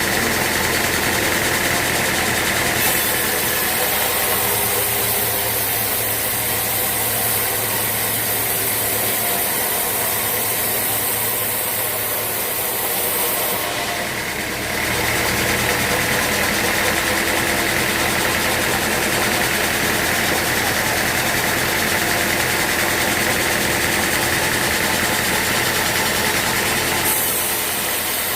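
Sawmill machinery running steadily, an engine-like hum with a high hiss that starts abruptly about three seconds in, stops near the middle, and returns near the end.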